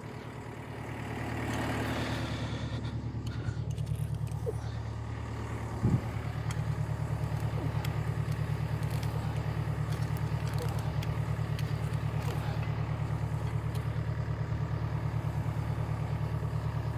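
Volvo skid steer's diesel engine idling steadily, with a single short knock about six seconds in.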